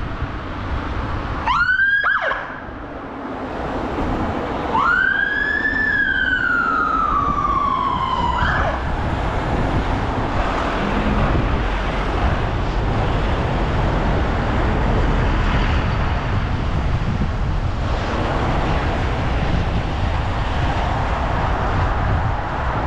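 Emergency-vehicle siren wailing: a short rising sweep, then a longer rise and slow fall, cutting off about eight or nine seconds in. After that, a steady low rumble of wind and traffic noise from the moving bike.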